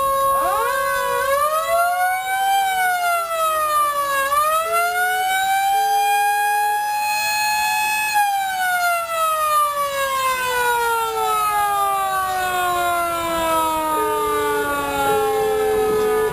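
A siren-like wail: several pitched tones slide slowly up and down together, with a few short steady notes around the middle and near the end.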